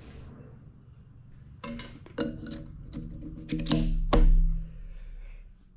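Metal-on-metal clinks and ringing knocks as a heated sleeve is fitted onto a diff yoke's seal surface. The heaviest knock comes about four seconds in, then the ringing dies away.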